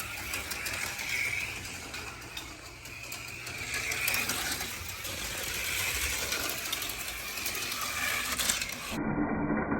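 HO-scale slot cars' small electric motors whining around a plastic track, the pitch swelling and dropping several times as the cars speed up and slow down, with light clicking and rattling from the cars on the track.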